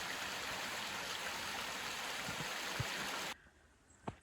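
Steady rush of flowing water, cutting off suddenly a little over three seconds in, followed by near silence with a faint click.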